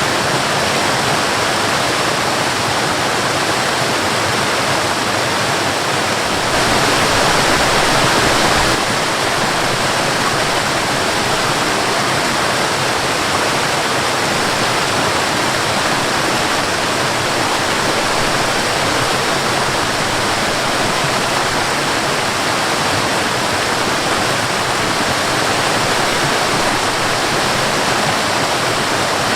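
Waterfall and river water rushing steadily, a little louder for about two seconds around seven seconds in.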